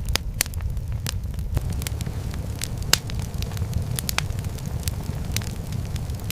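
A fire crackling, with irregular sharp pops over a steady low rumble.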